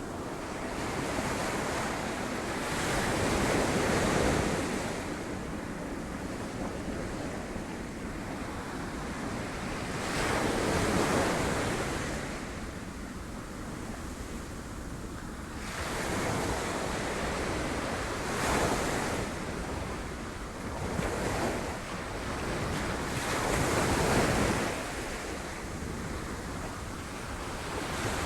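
Sea waves breaking on rocks, rising in a surge of surf every six to eight seconds and washing back between them, with wind buffeting the microphone.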